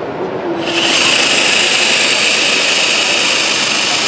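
A power tool starts up less than a second in and runs steadily with a high, hissing whine.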